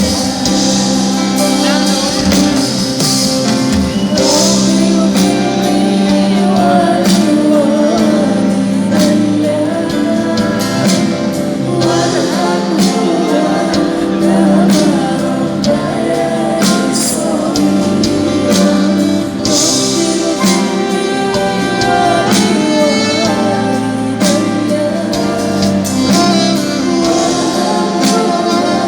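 Live band music with a voice singing over sustained instrumental chords and regular percussion strokes, loud and continuous.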